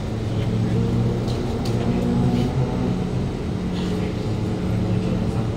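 Steady low two-tone hum inside a Kawasaki Heavy Industries C151 MRT car, with a few faint clicks and some passenger noise over it.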